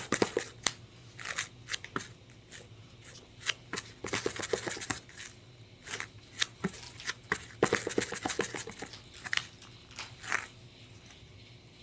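Irregular handling noises: small objects being tapped and crinkled, with sharp clicks and short crackly rustles that die down near the end.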